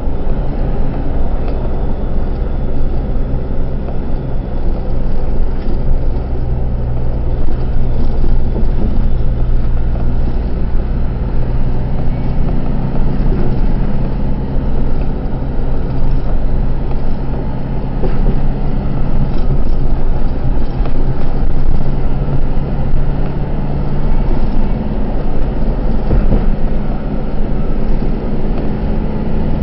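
Truck engine running under way with road noise, heard inside the cab as a steady low drone whose pitch shifts a little a couple of times.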